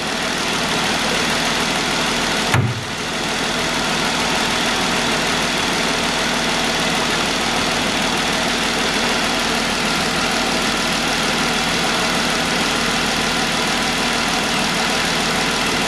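Jeep Wrangler JK's 3.6-litre V6 idling steadily while air is bled from the cooling system after a thermostat change, with a single short thump about two and a half seconds in.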